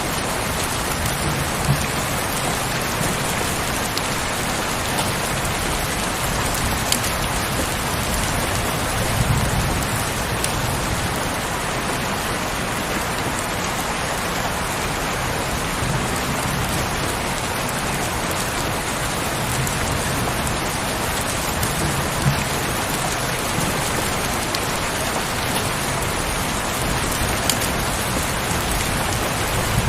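Heavy rain falling steadily, with a few sharper drop hits standing out now and then.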